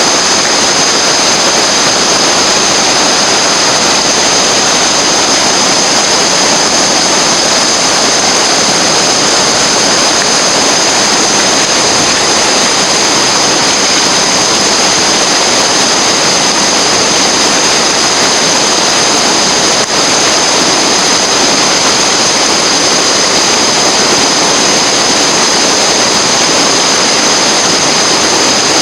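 Rushing river water, loud and steady, with a brief dropout about two-thirds of the way through.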